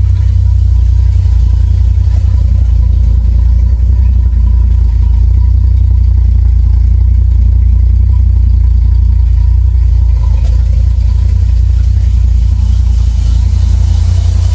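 1967 Chevrolet Bel Air's Chevy 350 V8 idling steadily just after a cold start, through a newly installed full exhaust. It has a deep, even, low note, quiet but a little droney.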